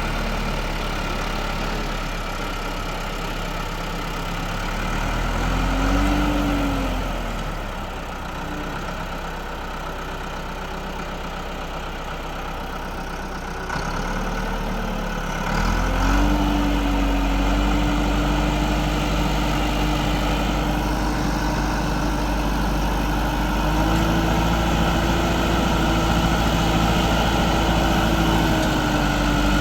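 Tractor engine running, revving up and back down briefly twice in the first half, then held at higher revs for the rest, stepping up once more before dropping back at the very end.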